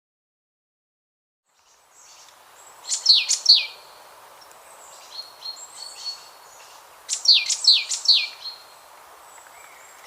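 Bird song: after a second or so of silence, two bursts of three or four quick, high, downward-sweeping notes about four seconds apart, with fainter calls between, over a steady outdoor background hiss.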